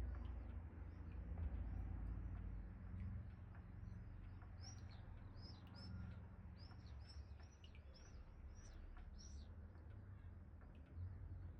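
Small birds chirping in quick repeated calls, busiest through the middle, over a faint low rumble of wind.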